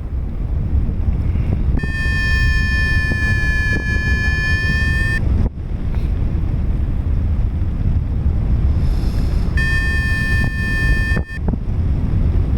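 Wind rushing over the microphone in flight, with two long steady electronic tones from a Flymaster flight variometer: the first about two seconds in, lasting about three seconds, the second shorter, near the end.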